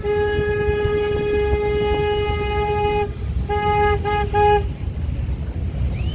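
A boat horn blowing one long blast, then three short blasts, over a steady low rumble.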